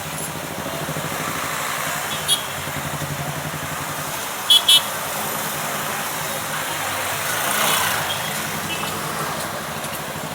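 A motor vehicle's engine running steadily at idle, with a short high beep about two seconds in and two quick high beeps about four and a half seconds in.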